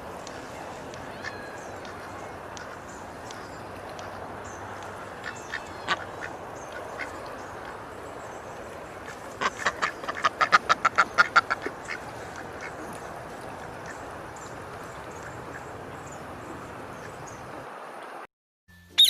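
Duck quacking: scattered single quacks, then a rapid run of about a dozen quacks about ten seconds in, over a steady background hiss. The sound cuts off shortly before the end.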